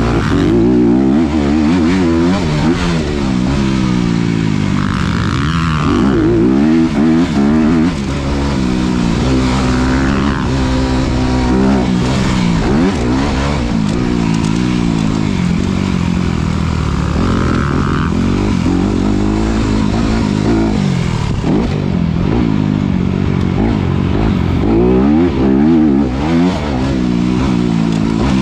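Honda CRF250RX's 250 cc four-stroke single-cylinder engine revving hard, its pitch climbing and falling again and again under repeated acceleration and backing off.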